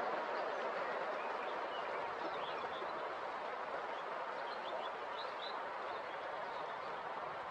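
River water rushing steadily over its bed, a constant full hiss. A few faint high bird chirps come through twice.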